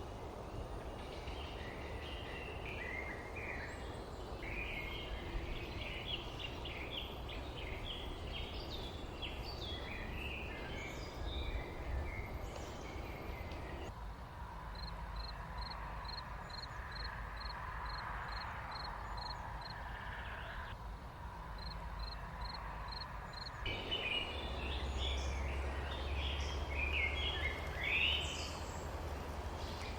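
Small songbirds chirping and twittering over a steady low background rumble. In the middle stretch the rumble drops away and a single high note repeats about two or three times a second, while the chirping goes on more faintly.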